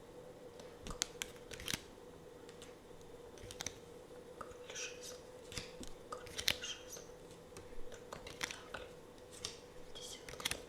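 Tarot cards being handled close to the microphone: irregular sharp taps and clicks with brief crisp rustles of card stock, over a faint steady hum.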